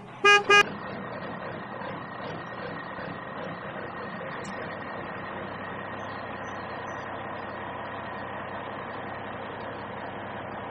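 Two short pitched beeps, then a small motor running steadily with a faint high whine, typical of a DIY toy tractor's motor.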